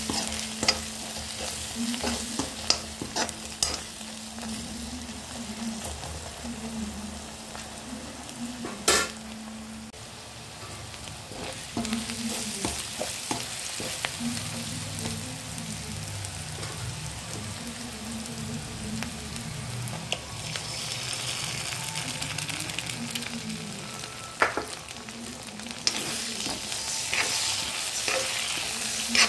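Chopped onions in oil sizzling in a frying pan while a spatula stirs them, with sharp clicks and scrapes of the spatula on the pan. Near the end the sizzle grows brighter as beaten egg goes into the pan.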